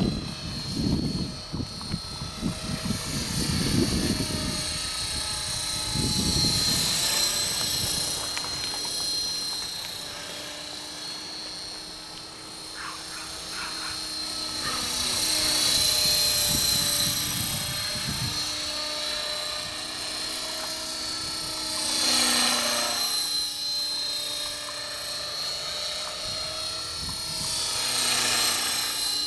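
Electric RC helicopter with a four-blade rotor head flying, its motor whine and rotor buzz held steady with small shifts in pitch. It swells into loud swooshes and fades again several times as it passes close. Rough wind rumble sits on the microphone in the first few seconds.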